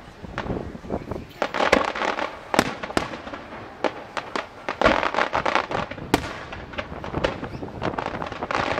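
Fireworks display: a rapid, irregular string of aerial shells bursting, with sharp bangs over continuous crackling.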